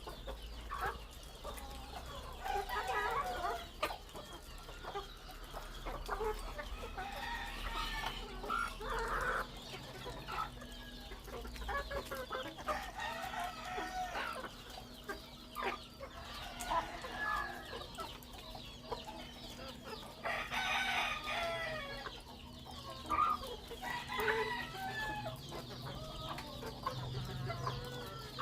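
Chickens clucking almost continuously, with several birds calling over one another, and roosters crowing, one long crow about two-thirds of the way in standing out as the loudest call.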